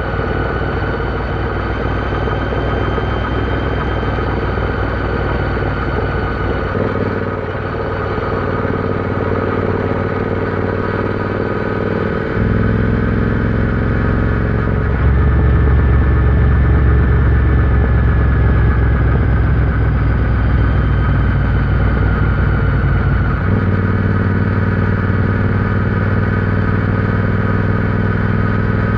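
Royal Enfield Interceptor 650's parallel-twin engine running on the move. Its note shifts in steps several times as the throttle changes, and it is loudest around the middle.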